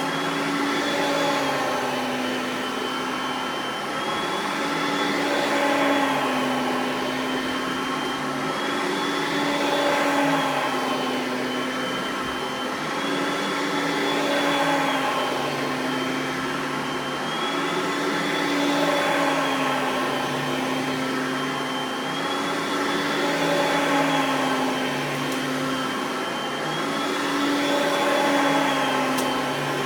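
Oreck XL Platinum upright vacuum's 3.5-amp dual-speed motor running steadily. Its whine and loudness rise and fall together about every four seconds.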